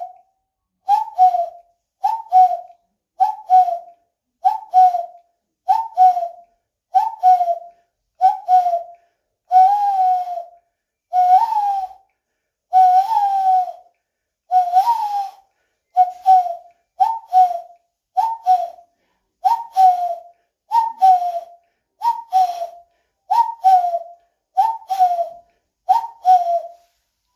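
Common cuckoo calling over and over, each call a falling two-note "cuck-oo" repeated a little more than once a second, about twenty times.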